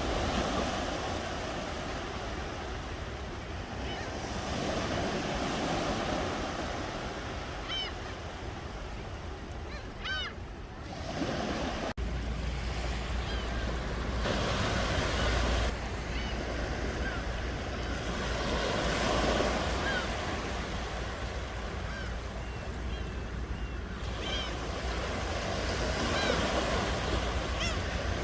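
Ocean waves breaking and washing up a shore, swelling and easing every few seconds, with short high chirps over the surf.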